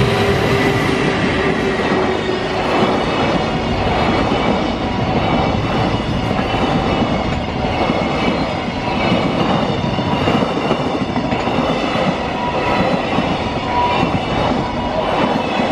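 Freight train passing close by at speed: a loud, steady rumble of wagons and wheels on the rails that lasts throughout, with a repeating clatter of wheels over rail joints.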